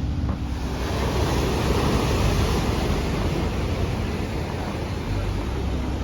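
Ocean surf: a big wave breaking, a rushing noise that swells about a second in and slowly eases off.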